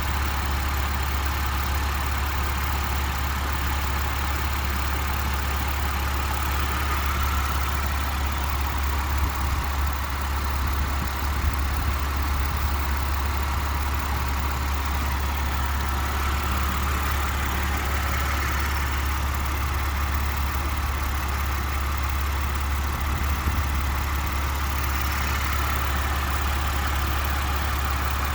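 2017 Porsche Macan Turbo's 3.6-litre twin-turbo V6 idling steadily.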